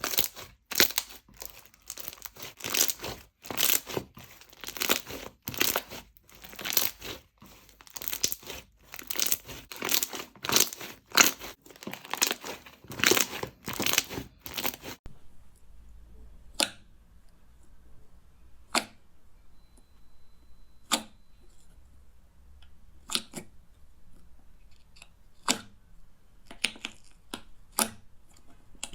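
Slime being worked for ASMR, making a dense run of crunchy, crackling noises several times a second for about the first half. It then changes abruptly to a quieter stretch with single sharp clicks every second or two.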